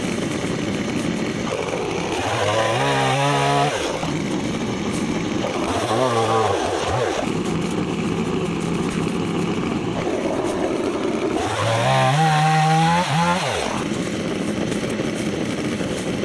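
Stihl MS 170 two-stroke chainsaw running, revving up to full speed and dropping back to idle three times as it cuts through fallen branches.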